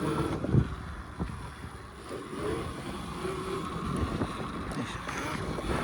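Wind buffeting the microphone while riding an electric pit bike, a steady rushing rumble, with a sharp thump about half a second in.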